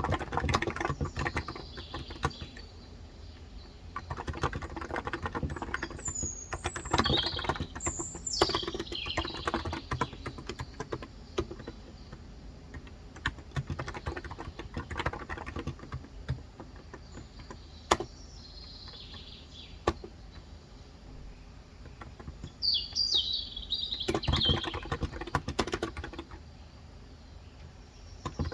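Typing on a COX Endeavour electro-capacitive (Topre-style) tenkeyless keyboard with 35 g switches, in bursts with pauses and a few lone keystrokes. A bird chirps a few seconds in and again near the end.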